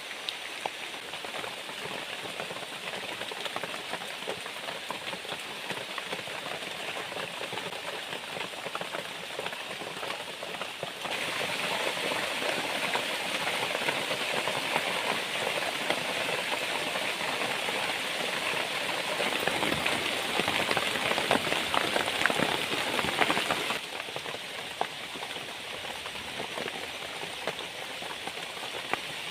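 Heavy rain falling, a dense patter of drops that grows louder about a third of the way in and eases back some seconds before the end.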